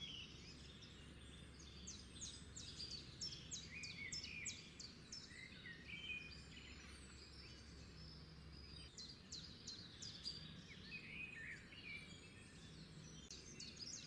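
Faint birdsong: many short chirps and whistles, scattered throughout, over a low steady hum.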